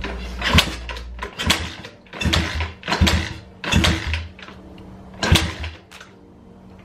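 A 125cc Lifan pit bike engine cranked over in about seven short strokes less than a second apart, never firing. It fails to start, which the owner puts down to a carburettor that probably needs cleaning after the bike sat for a year and a half.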